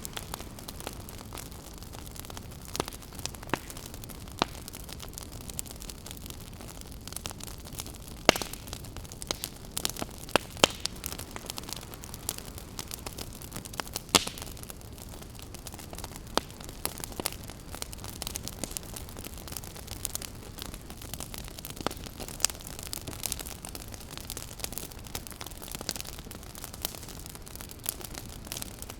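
Wood campfire crackling, with irregular sharp snaps and a few louder pops, over a steady background rush.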